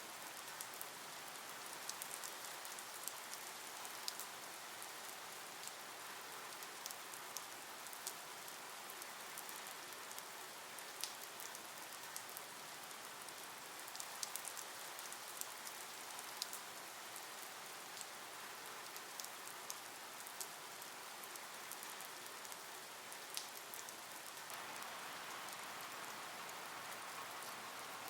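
Light rain falling on a surface: a faint, steady hiss with scattered sharp ticks of single drops, growing a little fuller near the end.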